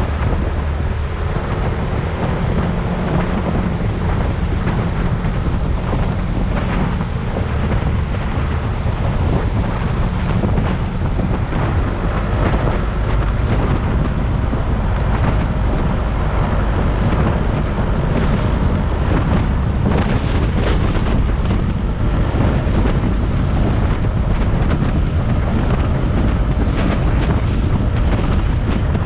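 Steady wind rush buffeting the microphone over the road and engine noise of a moving motorcycle.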